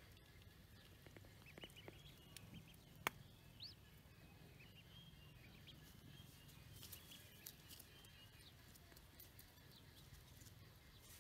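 Near silence: faint outdoor ambience with a few soft, high bird chirps and a single sharp click about three seconds in.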